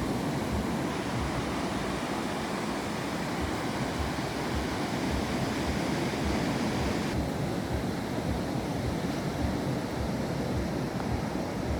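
Sea waves washing on the shore in a steady rush, with wind on the microphone; the higher hiss drops a little about seven seconds in.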